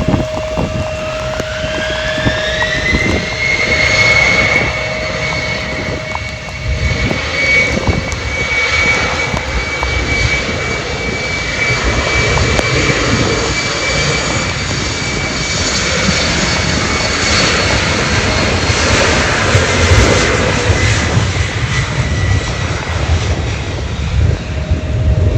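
Jet airliner engines spooling up: a whine rises in pitch over the first few seconds, then holds steady under a loud rush of engine noise, fading out near the end. Gusty wind buffets the microphone.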